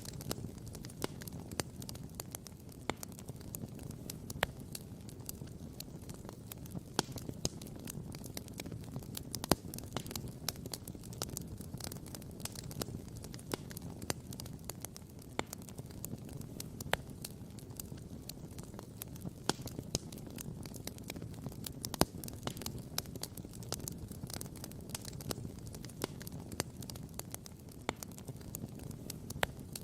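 Wood campfire crackling and popping: a constant scatter of sharp snaps over a low steady rumble, with a couple of louder pops, one about ten seconds in and one a little past twenty.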